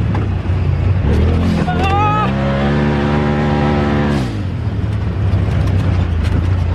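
Turbo side-by-side's engine revving under throttle off-road: the pitch climbs about a second and a half in, holds high, then drops back a little after four seconds. A brief high wavering tone sounds near two seconds.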